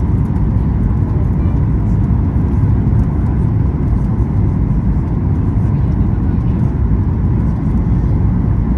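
Steady low rumble of cabin noise inside a Boeing 737-8 MAX airliner, with a faint steady tone above it.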